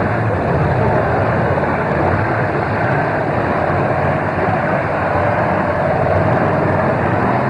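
Demolition derby cars' engines running together, a loud, steady mass of engine noise.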